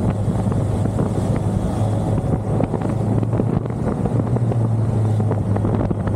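1985 BMW K100's inline four-cylinder engine running at a steady cruise under way, with wind noise on the microphone; the engine note steps up slightly about four seconds in.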